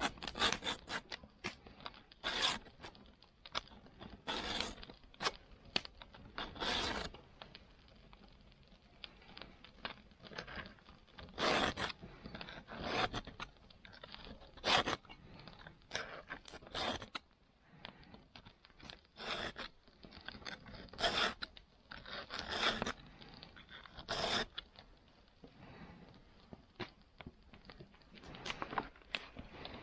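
Saw being sharpened by hand: a file scraping across the teeth in short, irregular strokes, roughly one a second, with a couple of brief pauses.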